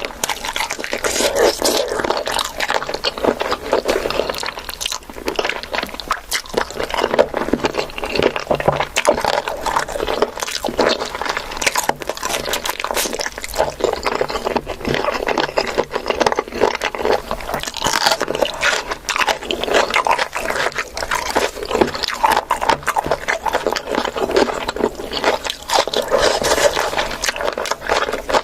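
A person eating close to the microphone: continuous chewing and crunching of food, with scraping sounds mixed in.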